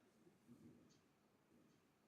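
Near silence: room tone during a pause in speech, with a couple of very faint ticks.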